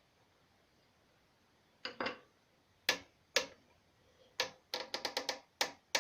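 Near silence, then from about two seconds in a series of about ten short, sharp taps at an uneven pace, some in quick clusters, each with a brief ring.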